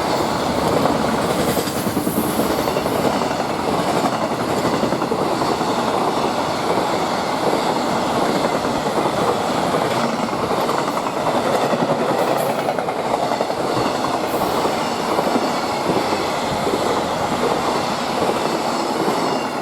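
A long freight train passing through the station at speed: a steady, loud rolling noise of many wagons' wheels on the rails, with no let-up.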